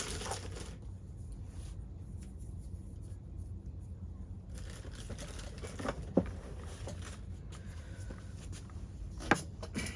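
A few light clicks as the small metal parts of a chainsaw clutch (drum, rim sprocket, needle bearing) are handled, over a steady low hum. Two clicks come close together about six seconds in and another a little after nine seconds.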